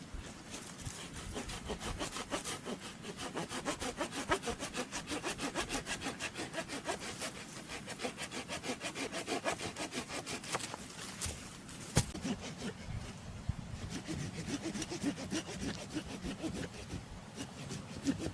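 Hand saw cutting through wood in quick, even back-and-forth strokes, with a single sharp click about two-thirds of the way through.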